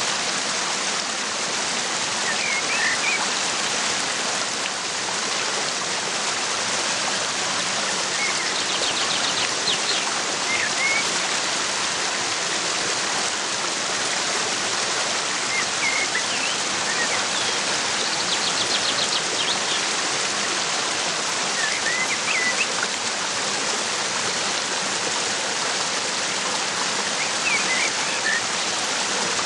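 Waterfall rushing steadily, with short bird chirps every few seconds over it and a couple of brief rapid bird trills.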